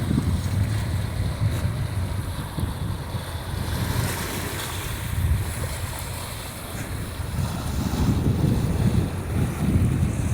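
Black Sea surf washing onto the shore, with wind buffeting the microphone in an uneven low rumble.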